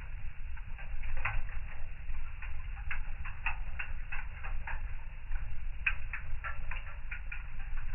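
Fire in a fireplace crackling, with irregular sharp pops and snaps, sometimes several in quick succession, over a low steady rumble.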